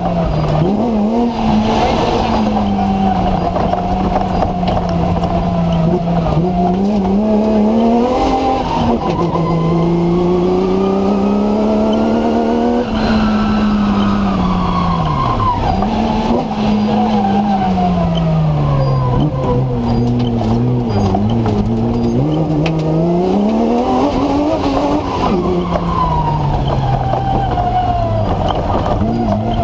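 BMW M3 engine of a TMC comp safari car heard from inside the cabin under competition driving, its revs climbing and falling again and again through the stage. A constant rushing noise runs underneath.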